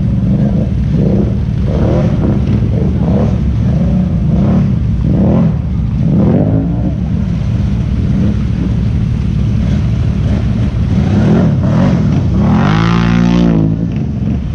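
Engine revving over and over, its pitch rising and falling about once a second, then a longer, higher rev near the end.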